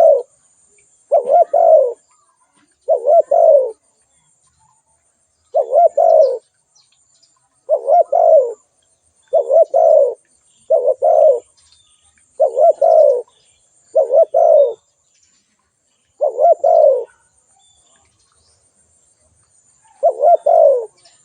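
Spotted dove cooing: loud, short phrases of two or three coo notes, repeated every one to two seconds, with a pause of a few seconds near the end.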